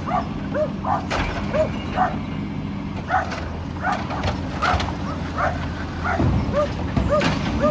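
A dog barking over and over in short, high yapping barks, about two to three a second, with a steady low engine hum underneath.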